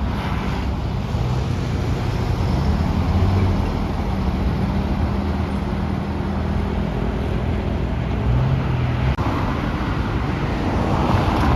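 Heavy truck engine running with road and traffic noise; its low hum shifts in pitch a few times, and there is a brief dropout about nine seconds in.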